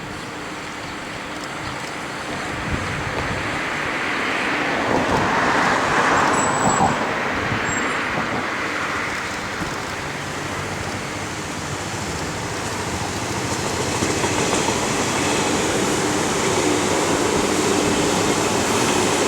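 JNR 583 series electric multiple unit approaching along the track: a rising rail rumble that swells about a third of the way in, eases, then grows steadily louder near the end as the train draws close.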